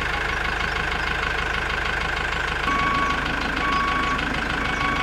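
Vehicle engine running steadily at idle. About halfway through, a beep starts repeating about once a second, like a reversing alarm.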